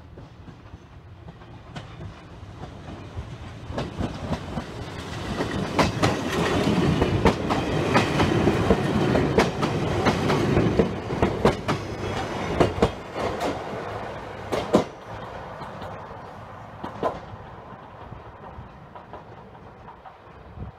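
Chichibu Railway stainless-steel electric train passing close by, its wheels clacking over rail joints. The rumble builds over several seconds, is loudest as the cars go by, and fades away over the last few seconds.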